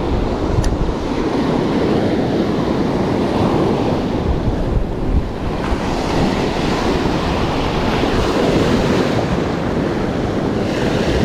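Gulf of Mexico surf washing onto the beach, a steady rushing wash, with wind rumbling on the microphone. The higher hiss of the surf grows a little after about six seconds.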